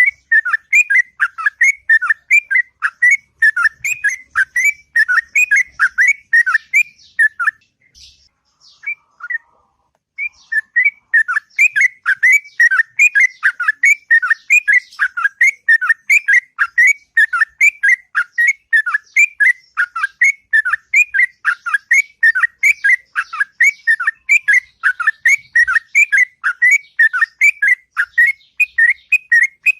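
Sooty-headed bulbul (trucuk) singing a long rapid chattering song of short, clear whistled notes at about four a second, breaking off for a few seconds near the end of the first third and then carrying on.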